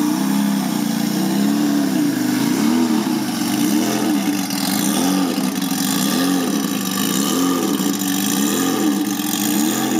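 Custom turbocharged 1982 Honda CBX 1000's air-cooled inline six-cylinder engine idling, its pitch wavering up and down about once a second.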